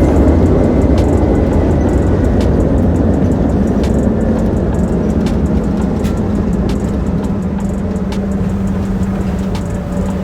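Steady low rumble of a moving vehicle heard from inside its cabin, with a faint steady hum and scattered light ticks.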